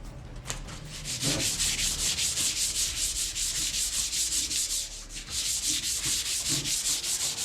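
Hand sanding with sandpaper on motorcycle parts being prepped for paint: quick, even back-and-forth strokes, about five a second, making a rhythmic scratchy hiss that dips briefly near the middle.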